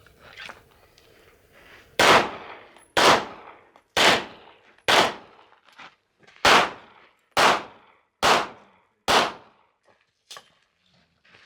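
Pistol firing eight shots about a second apart during a USPSA stage, with a slightly longer pause after the fourth shot. Two much fainter pops follow near the end.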